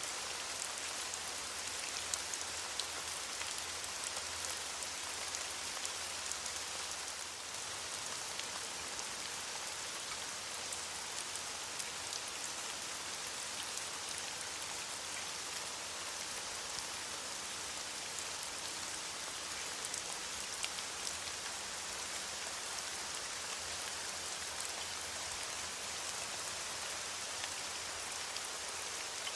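Steady rain falling on leaves, an even hiss with many small drop ticks.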